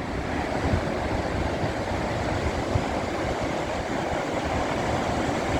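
Steady rushing noise of wind buffeting the phone's microphone over the wash of the sea at high tide.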